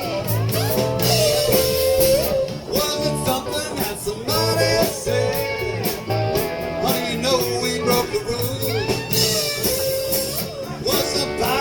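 Live blues-rock band playing an instrumental break, with electric guitar over bass and drums.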